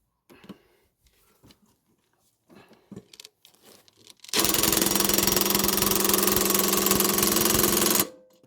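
DeWalt DCF887 cordless impact driver on its lowest speed hammering at a rusted lawnmower blade bolt for about four seconds, then stopping abruptly; the bolt does not come loose. Soft clicks of the driver being fitted and handled come before it starts.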